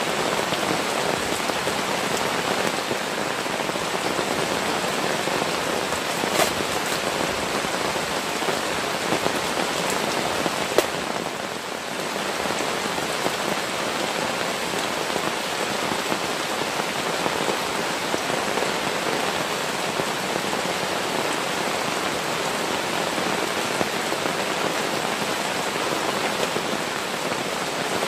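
Heavy rain falling steadily, a dense even hiss of drops, with a couple of sharper single drop hits.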